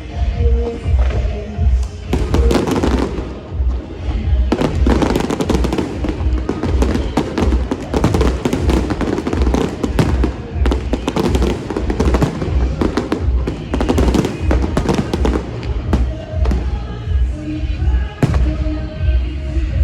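Aerial fireworks bursting and crackling over loud show music with a steady bass beat. The bursts are thickest through the middle.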